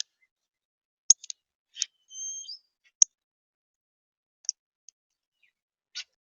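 A small songbird calling: a scatter of short, sharp, high chip notes, the loudest two almost like clicks, with one brief whistled note in the middle.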